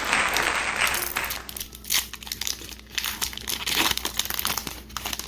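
A foil Pokémon booster pack wrapper crinkling as it is torn open and handled. There is a dense crackle for the first second or so, then scattered crinkles.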